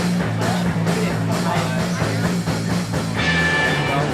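Rock music: drum kit, a pulsing bass line and electric guitar, with a held high note coming in about three seconds in.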